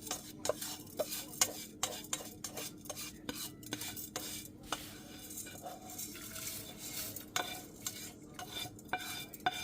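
A spoon stirring bulgur in a pot, with frequent clinks and scrapes against the pot's sides and bottom.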